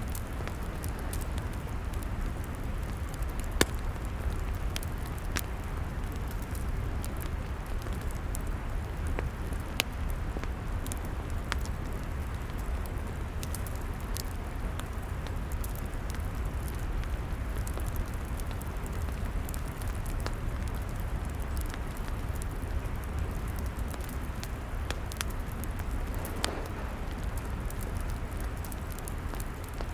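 Log fire crackling, with scattered sharp pops over a steady hiss. The loudest pops come about three and a half seconds and ten seconds in. A low steady rumble runs underneath.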